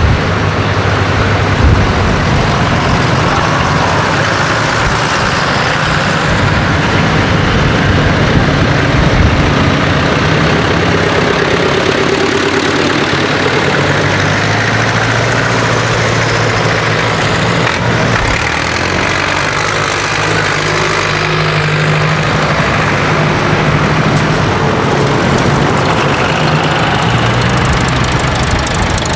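Diesel tractor engines running, one after another, their low engine notes rising and changing as different tractors come and go.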